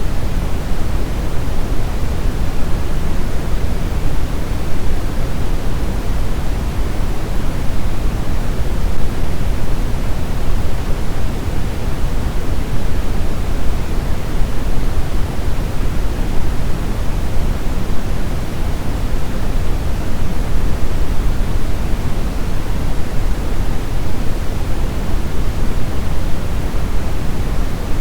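Steady brown noise: an even, unchanging deep rushing hiss, strongest in the low end and falling off toward the highs.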